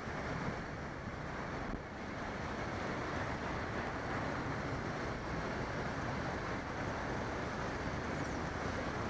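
Steady rush of wind on the microphone mixed with road traffic noise, as heard from a moving bicycle.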